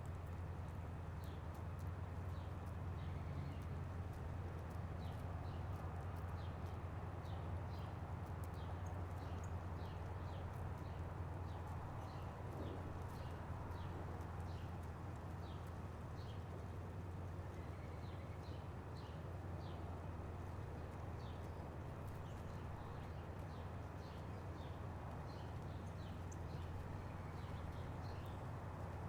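Small birds at a feeder making many short, high ticks, scattered irregularly a few per second, over a steady low hum.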